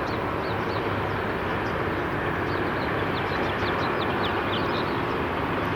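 Steady outdoor rumble and hiss of traffic and construction-site machinery, with short high chirps scattered through.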